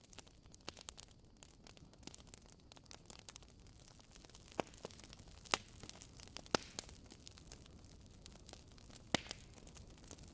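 Wood fire burning in a fireplace, with a soft hiss and irregular crackles and pops; a few sharper pops stand out about halfway through and near the end.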